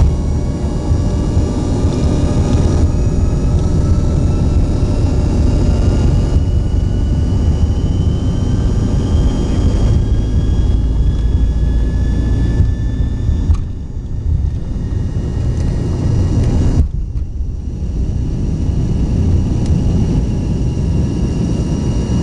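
Embraer ERJ-145's Rolls-Royce AE 3007 turbofan engines running under power: a deep steady rumble with a turbine whine slowly rising in pitch. The sound is briefly muffled twice about two-thirds of the way through.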